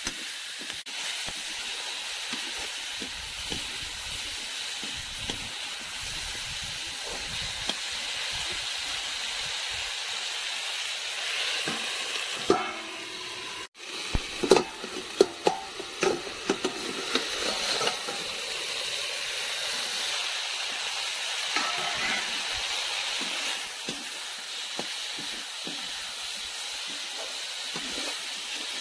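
Green tomato pieces sizzling steadily as they fry in a metal kadai. Between about twelve and eighteen seconds in, a run of sharp clinks and scrapes of a utensil against metal breaks in.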